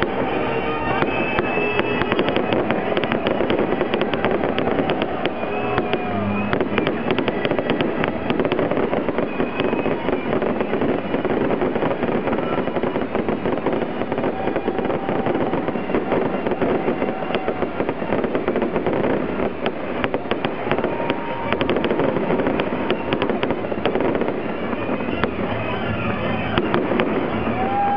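Fireworks display: many shells and fountains bursting at once in a dense, continuous crackle of bangs and pops.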